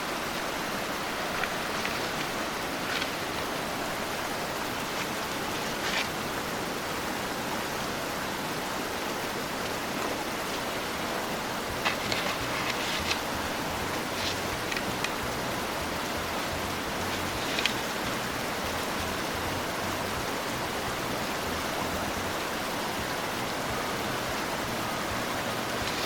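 Steady rushing noise with a few light clicks and knocks scattered through it.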